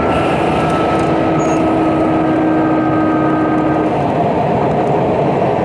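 Running noise inside a Sotetsu New 7000 series motor car with Hitachi GTO-VVVF inverter: a steady rumble of wheels and rails, with two steady inverter tones that cut out about four seconds in.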